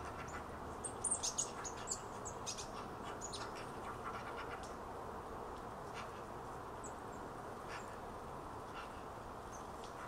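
Small birds giving short, high, thin calls, a quick cluster of them about a second in and a few scattered later, over a steady background hum of outdoor ambience.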